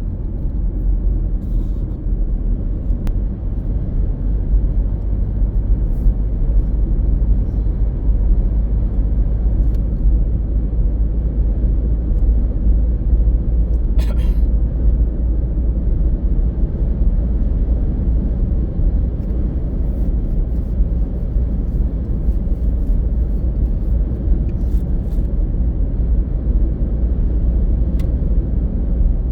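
Steady low rumble of a car driving, road and engine noise heard from the vehicle, with a few faint brief clicks, the clearest about halfway through.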